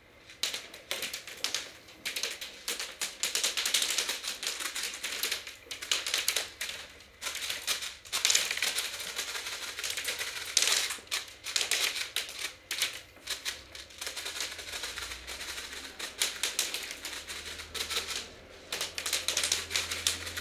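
Airsoft guns firing in rapid bursts: dense runs of sharp clicking shots with short gaps between them.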